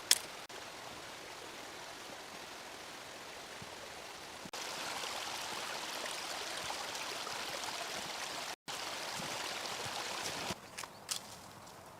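Steady rushing of running water from a stream or river. It gets louder about four and a half seconds in and quieter again near the end, with a sharp click or two at the very start.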